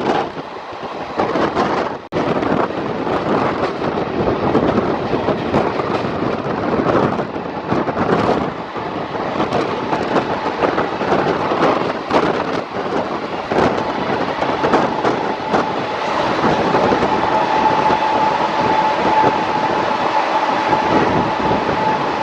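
Twin ALCo WDG-3A diesel locomotives chugging under power at the head of a moving train, heard from the first coach, with the coach wheels clattering over rail joints. A steady high tone comes in over the last few seconds.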